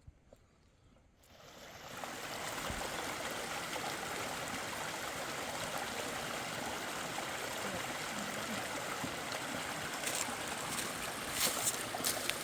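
Mountain river rushing water, fading in over about a second after a near-quiet start and then running as a steady rush. A few sharp clicks near the end.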